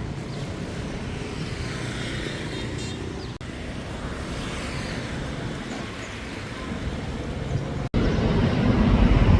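Road traffic running steadily, with a motor vehicle passing close and louder near the end.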